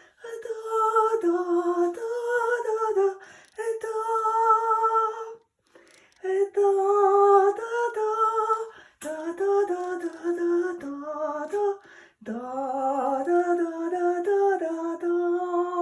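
A woman singing a gentle wordless melody in stepped notes, in phrases of a few seconds with short pauses between them.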